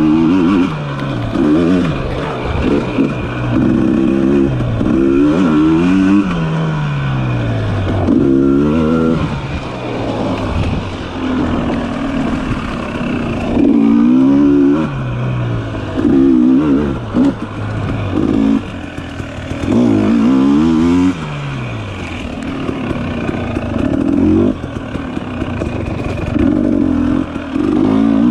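Dirt bike engine under constant throttle changes, revving up and easing off over and over, its pitch climbing and dropping every second or two.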